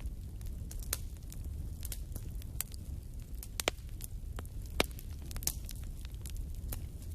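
Wood fire burning in a fireplace: a steady low rumble with irregular sharp crackles and pops, two louder pops past the middle.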